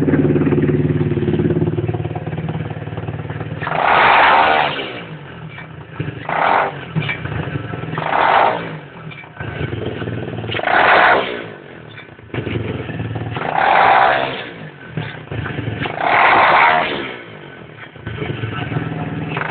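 Lifan 125cc pit bike engine idling, then blipped six times, each rev lasting about a second. As the revs drop back between blips there is a grinding or rattling noise, heard on an engine still in its running-in period.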